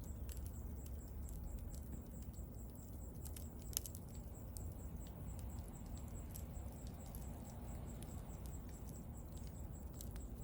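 Bonfire of burning wood crackling with scattered small pops over a steady low rush, and one louder snap about four seconds in.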